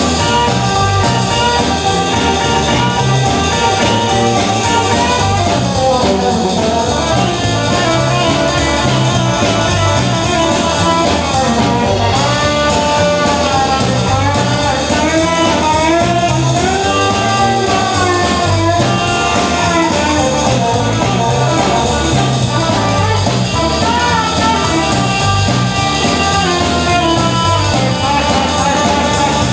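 A band playing live, with a steady drum and bass beat under a lead melody line that slides and bends in pitch through the middle.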